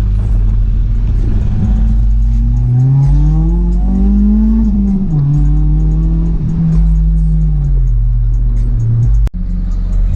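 Car engine revving: its note climbs to a peak about four and a half seconds in, falls back and holds, then sinks lower, over a deep steady rumble. The sound cuts out for a moment near the end.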